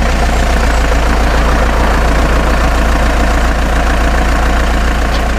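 An engine idling steadily with a loud, even low drone.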